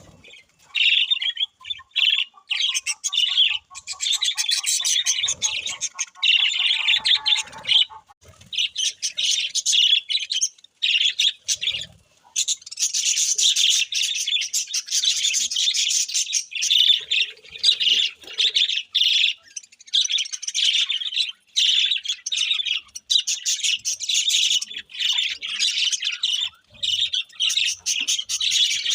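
Small birds chirping rapidly and continuously, many high chirps overlapping, with brief lulls about eight and twelve seconds in.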